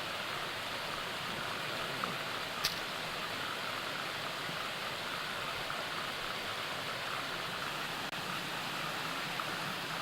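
Steady rushing of creek water pouring over the top of a waterfall, with one short click about two and a half seconds in.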